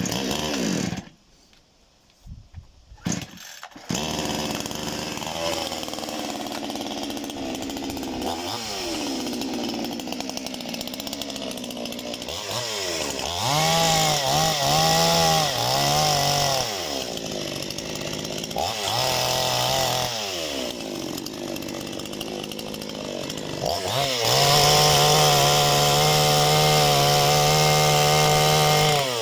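Parma BP-058 two-stroke chainsaw being started: a short burst at the first pull, a couple more pulls, then it catches about four seconds in and runs at idle. It is revved several times in the middle and held at high revs for about five seconds near the end before dropping back.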